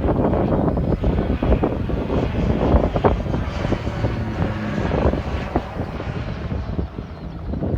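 A fixed-wing aircraft's engine noise, loud and rough, as a plane flies a display pass.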